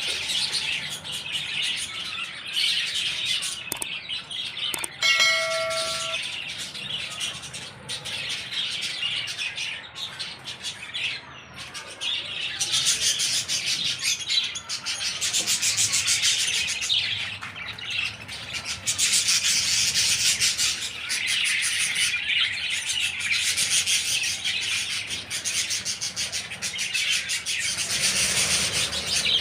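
A flock of budgerigars chattering and chirping continuously in rapid, overlapping calls. About five seconds in, a short clear ringing tone like a small bell sounds once.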